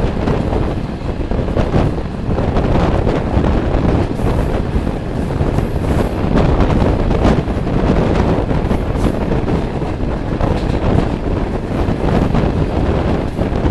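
Wind rushing over the microphone at the open window of a moving passenger train, over the steady rumble of the carriage running on the rails.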